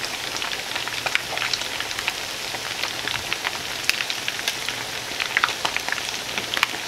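Striped bass fish cakes shallow-frying in about half an inch of oil in a cast iron skillet: a steady sizzle with many scattered crackles and pops.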